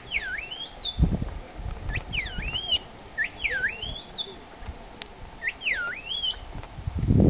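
A bird whistling four times, each call dipping down in pitch and swinging back up, with a low thump about a second in.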